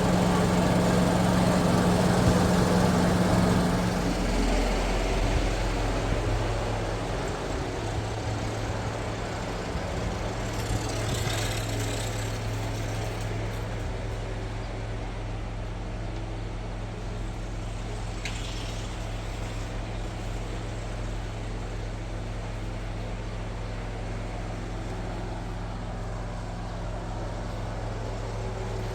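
A motor running steadily with a low hum. About four seconds in, its pitch and loudness drop a little, and it runs on evenly after that.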